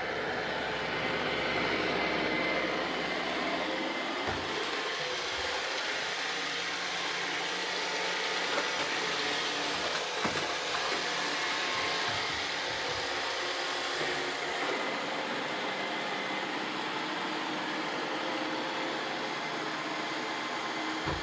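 Roomba robot vacuums running, a steady whirring hum of motors, brushes and suction, with a few short knocks spread through it.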